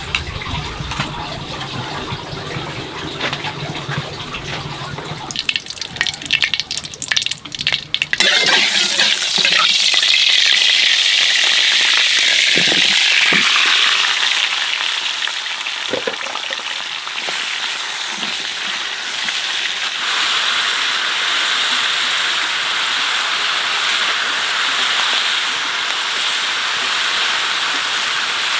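Food frying in a hot pan: a loud, steady sizzle that starts abruptly about eight seconds in, as ingredients go into the hot fat, with a few utensil knocks against the pan. Before that, water sounds.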